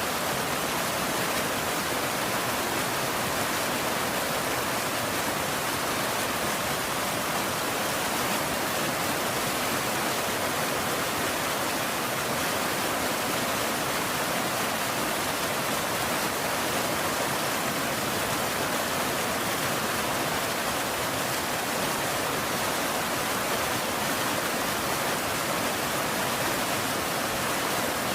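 Steady, heavy rain: an even, unbroken hiss with no single drops or thunder standing out.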